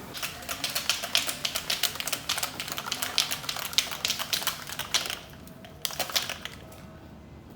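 Rapid, irregular clicking for about five seconds, then a short second run of clicks about a second later.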